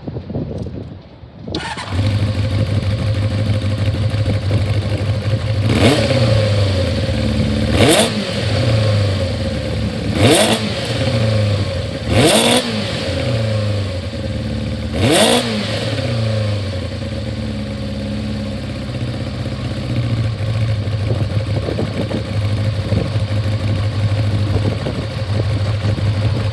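Kawasaki GPZ400R's inline-four engine starting up about two seconds in and settling to a steady idle. It is blipped up and back down five times between about six and fifteen seconds, then returns to idle.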